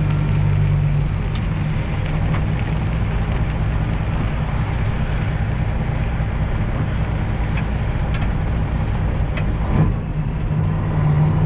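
Freightliner Classic XL semi truck's Detroit Diesel 12.7-litre Series 60 engine running steadily as the truck drives, heard inside the cab over road and rain noise. The engine's note eases after about a second and comes back up near the end.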